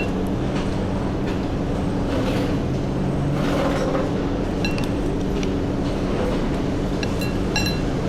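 Motorcycle running on the move through traffic, a steady engine hum mixed with road and wind noise. A few short, high-pitched chirps come through around the middle and near the end.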